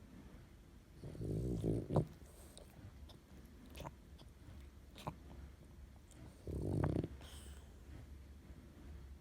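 French bulldog snoring in its sleep: two snores, a longer one about a second in and a shorter one near the end, with a few faint clicks between.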